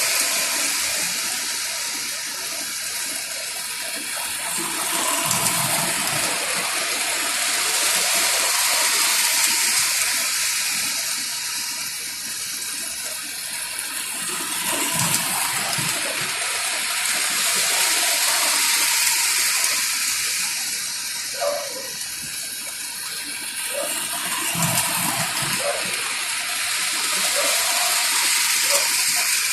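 Lionel model train running on its track: a steady rushing hiss of wheels and motor. It swells and fades about every ten seconds, with a low rumble at each peak, as the train comes round the loop.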